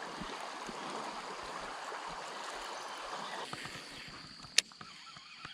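Shallow river water running and gurgling, fading after about four seconds, with one sharp click near the end.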